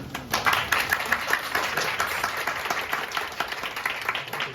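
Audience applauding, the clapping breaking out just after the start and going on steadily.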